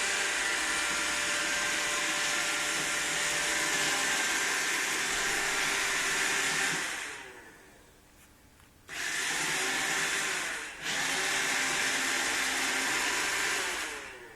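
Roomba robot vacuum's motor running steadily. It winds down about seven seconds in, starts up again abruptly about two seconds later, dips briefly, then winds down again near the end.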